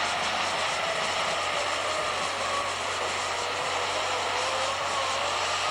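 Superstock pulling tractor's turbocharged diesel engine running at full throttle under load, dragging the weight sled down the track: a loud, steady noise with a high tone that wavers up and down.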